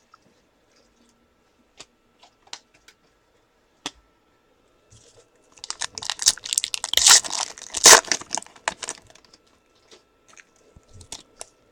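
A trading card pack's wrapper being torn open and crinkled, a crackling stretch of a few seconds, with a few light clicks of card handling before and after.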